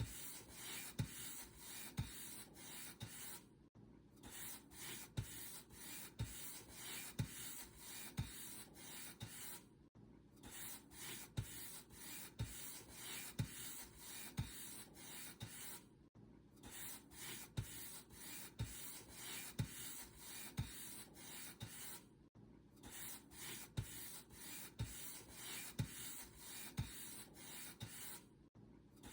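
Paint brush bristles stroked back and forth over a surface in a steady run of scratchy strokes, with a soft low tap on many strokes. The brushing breaks off for a moment about every six seconds.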